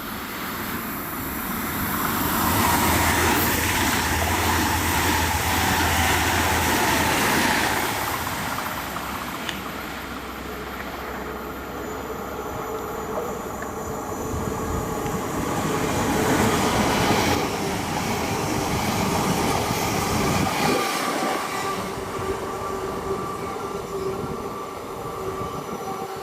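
A DB ICE-T electric multiple unit running past on the line, a loud rolling rush of wheels on rail with steady whining tones over it. It swells about two seconds in, eases off around eight seconds, and swells again briefly about sixteen seconds in.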